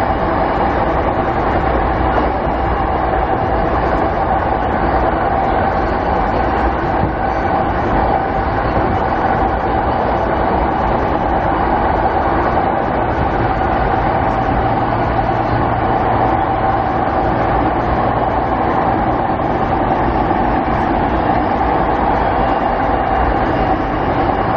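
Interior running noise of a JR 209 series 500 EMU commuter train, heard in a motor car while cruising at steady speed between stations. Continuous wheel and rail rolling noise with a steady mid-pitched hum, and a low drone that comes in for a few seconds midway.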